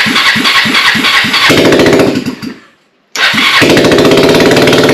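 Kawasaki Lakota ATV's single-cylinder four-stroke engine with no exhaust fitted being started on the electric starter twice: it cranks with an even beat, catches and runs briefly, dies about two and a half seconds in, then cranks again and catches and runs on about a second later. The freshly rebuilt carburetor now lets it fire without starting fluid.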